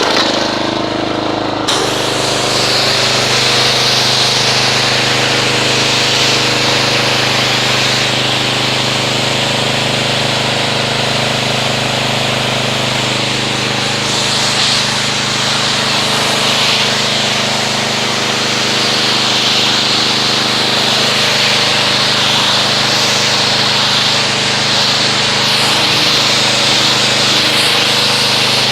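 Gas-engine pressure washer running steadily, with its spray wand opening up about two seconds in and blasting a hissing jet of water to rinse soap off the car.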